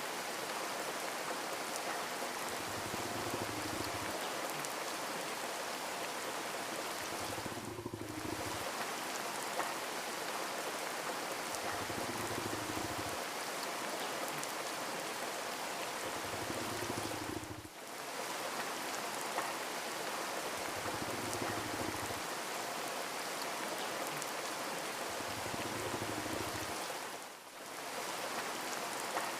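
Steady rain falling, an even hiss of drops on surfaces that dips briefly about every ten seconds, with a soft low swell every few seconds beneath it.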